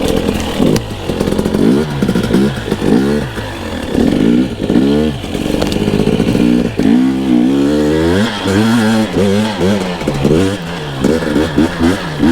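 Two-stroke dirt bike engine revving up and down in quick bursts of throttle, with one longer rise in revs about seven seconds in, as it is ridden slowly over rough ground.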